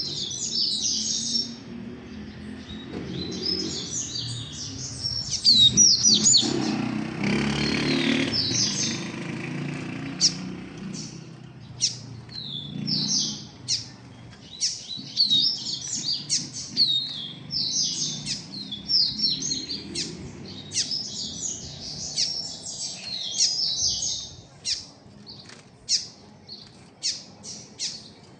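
Coleiro and papa-capim seedeaters singing: fast, high twittering phrases one after another. A rustling noise runs under the song from about seven to ten seconds in, and the song thins to short, scattered notes near the end.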